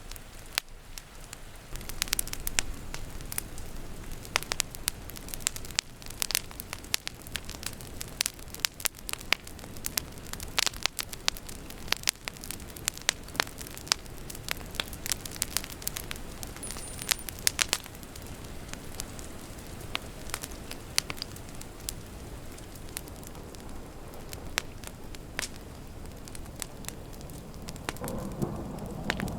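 Wood fire crackling, with frequent sharp, irregular pops over a soft steady hiss of rain. A low rumble of thunder builds near the end.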